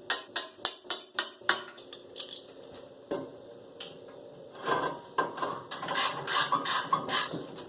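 Hand-tool work on metal: sharp mechanical clicks, about three a second for the first second and a half, then a few scattered clicks, then a denser run of clicking and clattering from about four and a half seconds in.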